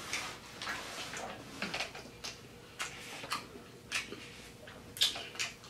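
Close-up eating sounds from a seafood boil: chewing and wet lip smacks, heard as irregular sharp clicks, with the odd rustle of the plastic boil bag.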